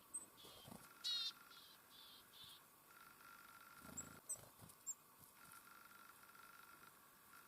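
Small songbirds at a feeder giving short high chirps, with a brief rapid trill about a second in and a few soft low knocks around the middle.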